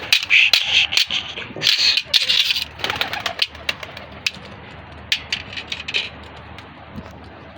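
Domestic pigeons in a loft cooing, with rustling and sharp clicks and knocks of birds moving about, busiest in the first few seconds and thinning out after about four seconds.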